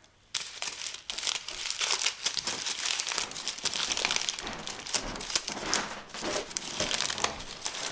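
Gift wrapping crinkling and rustling in quick, crackly handfuls as a present is unwrapped by hand, starting sharply just after the start.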